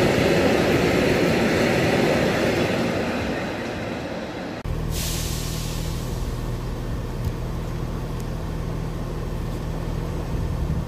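Freight train wagons rumbling past on the rails, fading over the first four and a half seconds. Then the sound cuts off abruptly and a steady low drone takes over, with a short hiss just after the change.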